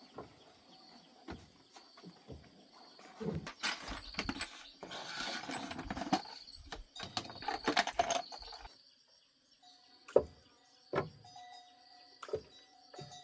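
Work sounds on a car: scattered clinks and knocks, a busier stretch of rattling clatter in the middle, then a few single sharp knocks near the end, over a faint steady drone of insects.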